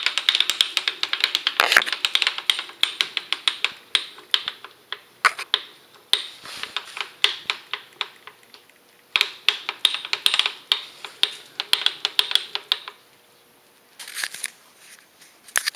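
Milling machine making rapid, sharp clicking, several clicks a second, in bursts with short pauses between them. This is an unexplained fault noise from the machine.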